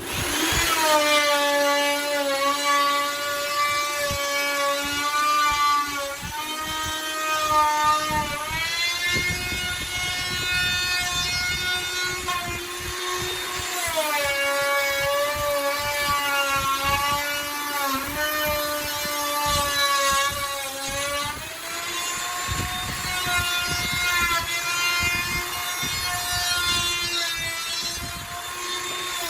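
Handheld electric router cutting wood: a high motor whine that comes up to speed at the start, then sags in pitch and recovers again and again as the bit takes and sheds load.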